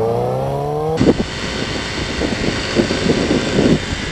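A vehicle engine accelerating, its pitch rising steadily. About a second in it cuts off abruptly to a loud, gusty rushing noise like wind and road noise on a riding camera.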